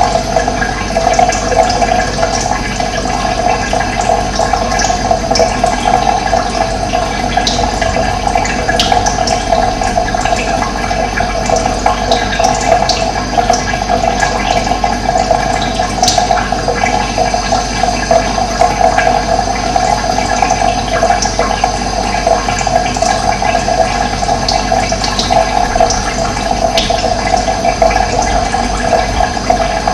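Running water, a steady rushing, with brief bird chirps scattered over it.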